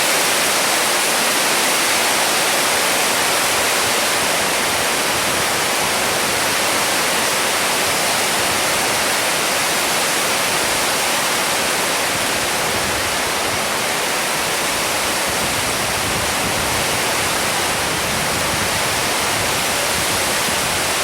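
Heavy rain pouring down in a storm: a steady, dense hiss.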